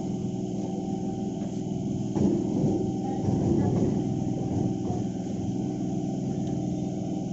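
EMU local train running, a steady hum from its motors and wheels, with people's voices about two to four seconds in.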